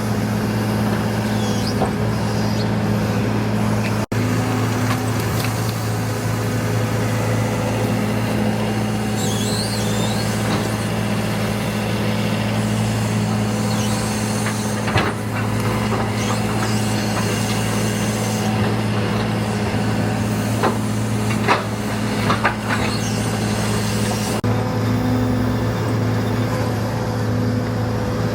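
Heavy diesel construction machinery running with a steady low drone, broken by a few brief clanks.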